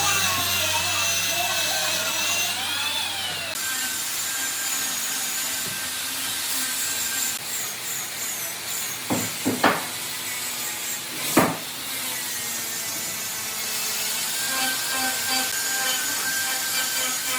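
Power tools running on wood, the motor pitch wavering under load and the sound changing abruptly a few times. Three sharp knocks come around the middle.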